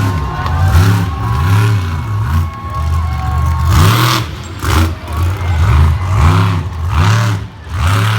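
Monster truck engine revved hard over and over, its pitch climbing and dropping back roughly once a second.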